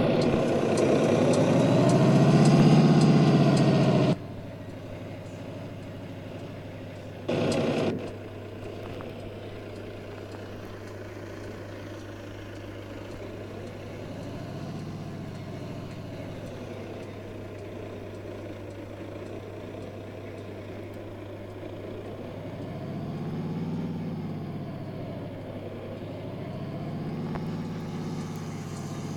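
Heavy truck engines running, their pitch rising and falling as they rev up and ease off. The sound is loud for the first few seconds and drops off suddenly about four seconds in. There is a short loud burst about seven seconds in, after which the engines run quieter.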